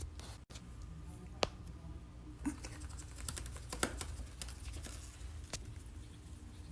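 Faint, scattered light clicks and taps over a low hum, more frequent in the second half.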